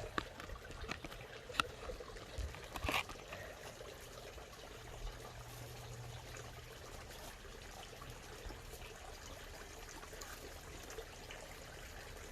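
Water steadily trickling and bubbling into a backyard pond, with a few sharp clicks in the first three seconds.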